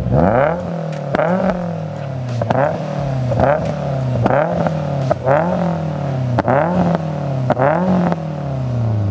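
Subaru WRX's turbocharged 2.5-litre flat-four, with its full bolt-on exhaust, being free-revved in place about eight times, roughly once a second. Each rev rises and falls in pitch, with sharp pops near the top of the revs.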